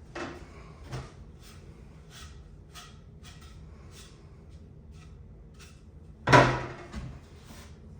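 Wooden drawer parts being handled and set together during a glue-up: light clicks and taps throughout, with one much louder knock about six seconds in and a smaller one just after.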